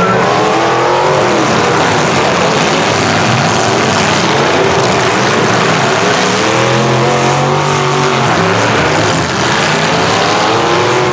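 Several demolition derby trucks, vans and SUVs running loudly at once, their engines revving up and down repeatedly.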